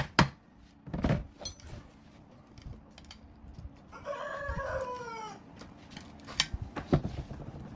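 A rooster crows once in the middle, a call of about a second that falls in pitch at its end. Around it are metal-working knocks: a last hammer blow at the start, a thud about a second in, and two sharp knocks near the end.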